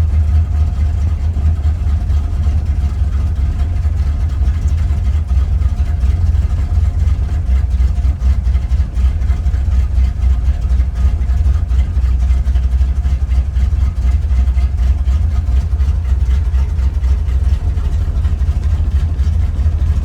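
1967 Corvette V8 running steadily at a cold-start fast idle, with no throttle input. The raised idle is the automatic choke holding the engine at higher RPM while cold, as the owner reads it.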